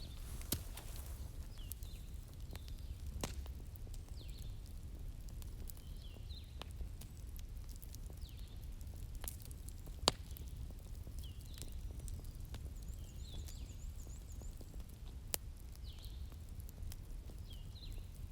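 Bonfire crackling with sharp pops every few seconds over a low steady rumble, with short high bird chirps every second or two behind it.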